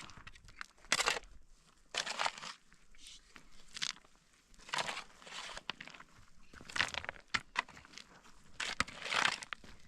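Irregular crunching and rustling noises, a short burst every second or two with quieter gaps between.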